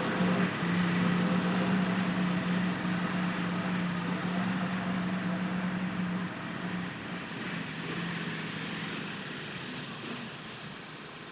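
Tractor engine running at a steady pitch, with a constant hum, growing gradually fainter over the last few seconds.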